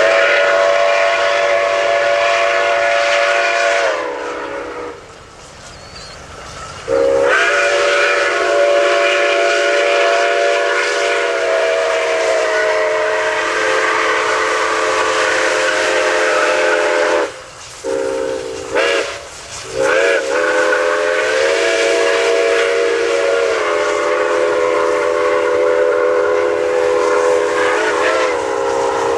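Steam whistle of Nickel Plate Road 2-8-4 Berkshire No. 765 blowing a chord of several tones in a series of blasts: a blast of about four seconds, a long one of about ten seconds, two short toots, then another long blast until near the end. A steady steam hiss runs underneath.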